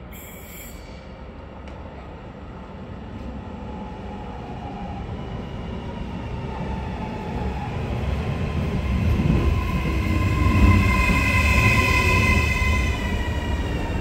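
Trenitalia Rock double-deck electric train approaching and pulling in along the platform, its running noise growing steadily louder. A high whine rises over the rumble from about eight seconds in.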